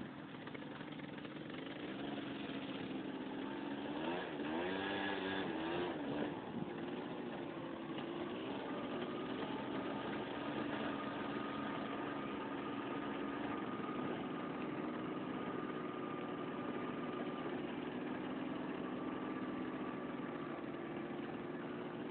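Tractor engine running, its pitch rising and falling unevenly for a couple of seconds near the start, then holding a steady drone.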